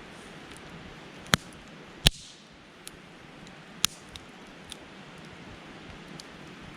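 Wood campfire crackling: a steady hiss with sharp pops, three loud ones in the first four seconds and a few fainter ticks between.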